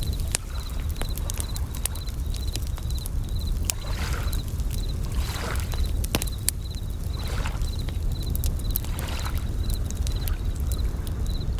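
Layered nature sounds: a campfire crackling with sharp pops, waves washing in soft swells every second or two over a low rumble, and bell crickets (suzumushi) chirping in short, high, evenly repeated trills.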